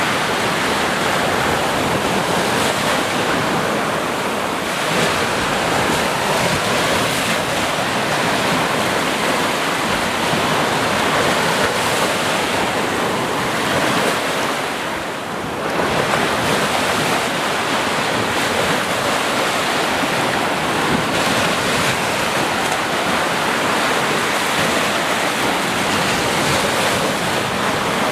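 Ocean waves breaking and washing continuously on a shore, a dense steady hiss that eases briefly about halfway through before the next wave swells back in.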